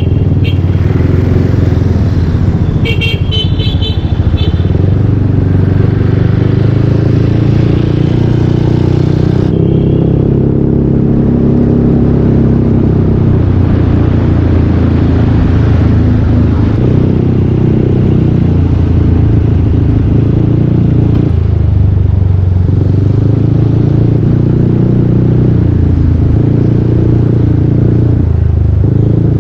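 Yamaha Aerox 155 scooter's single-cylinder engine running through a full Yoshimura exhaust while riding, its pitch rising and falling with the throttle.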